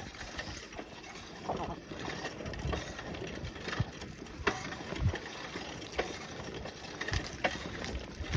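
Scattered knocks and clicks over a steady outdoor hiss, with a brief faint voice-like sound about one and a half seconds in.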